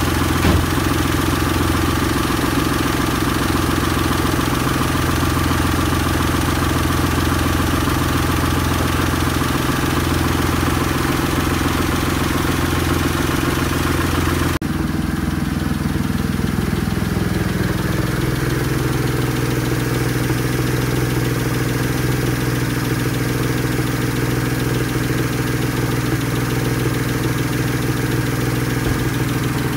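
Rebuilt Seat Ibiza 1.2 12V (AZQ/BME) three-cylinder petrol engine idling steadily. After a sudden break about halfway through, its revs fall over a couple of seconds and settle into a lower, even idle.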